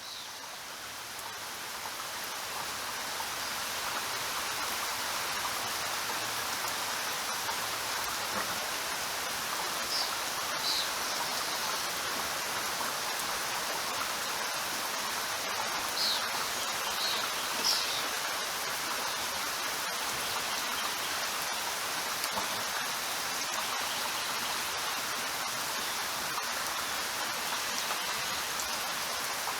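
Steady heavy rain, an even hiss of falling drops that swells up over the first few seconds and then holds level. A few brief high chirps sound around the middle.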